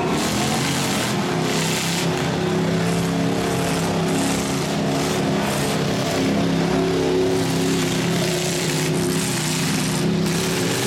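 Demolition derby trucks' engines running under a wash of arena noise, with one engine holding a steady note for several seconds in the middle.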